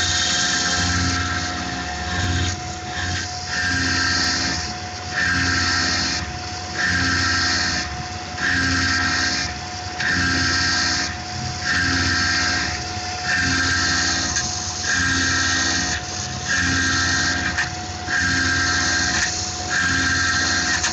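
Tormach PCNC 1100 CNC mill cutting an aluminum pocket with an end mill. Under a steady spindle tone, the cutting noise swells and drops in a regular cycle about every 1.7 seconds as the cutter makes its passes.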